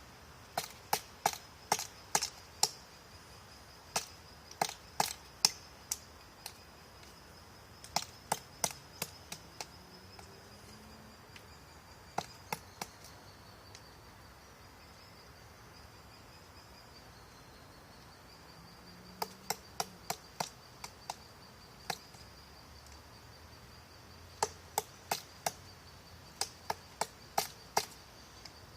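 A woodpecker pecking at wood: sharp single taps coming two or three a second in short bouts of several strikes, with pauses of a few seconds between bouts.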